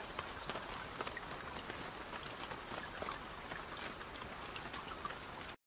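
Steady rain falling, a faint even wash with many small scattered drop ticks, cutting off abruptly near the end.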